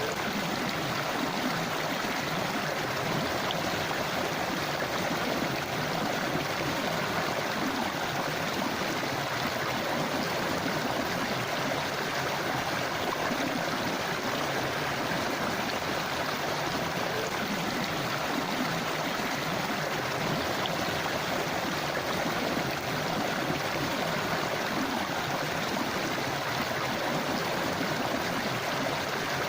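Small river running steadily over stones: an even rushing and gurgling of flowing water.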